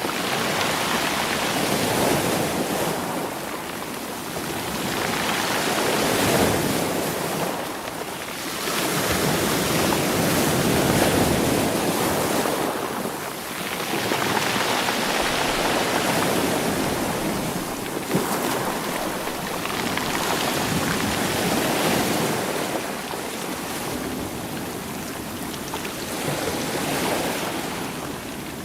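Sea waves washing in against rocks, with the rocks rolling in the surf. The rush swells and falls back every four to five seconds.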